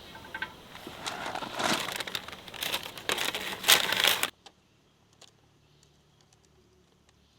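Dry rice paper being crumpled and broken up by hand: crisp crinkling and crackling that stops abruptly a little over four seconds in, leaving only a few faint clicks.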